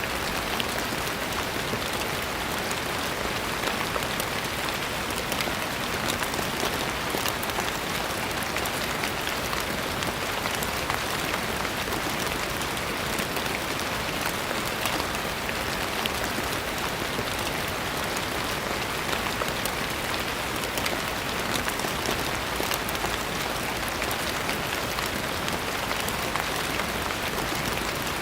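Steady rain falling on a surface, an even hiss thick with many small drop ticks, with no change in strength.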